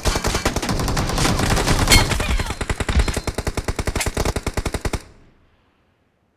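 Video-game automatic rifle firing in a long sustained burst of rapid shots, about nine a second, that stops about five seconds in.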